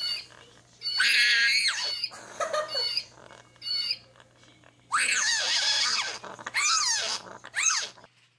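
An animal's high-pitched calls: short chirps repeating every second or so, with several louder, longer squeals whose pitch bends, about a second in and again from about five seconds on.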